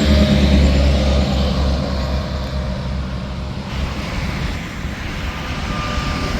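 Heavy truck passing on the interstate: a deep engine and tyre rumble that fades away about four seconds in, leaving steady traffic noise.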